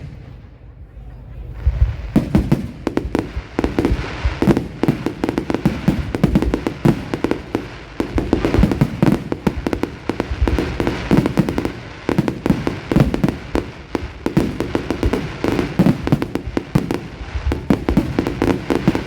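Aerial fireworks going off in a rapid, continuous barrage of bangs and crackles, starting about two seconds in after a brief lull.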